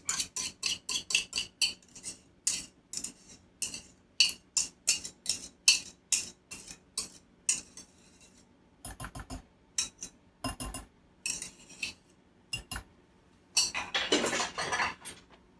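A utensil clicking and scraping against a bowl as mayonnaise dressing is scraped out over chicken salad: quick sharp clicks, about two to three a second, for the first half, then a few duller knocks and a longer scrape near the end.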